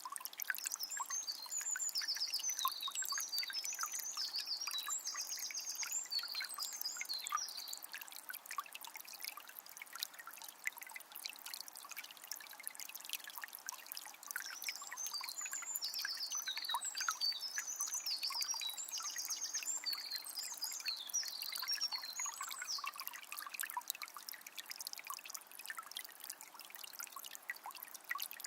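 Small spring trickling and splashing steadily. A songbird sings high, rapidly repeated phrases twice, each spell lasting several seconds.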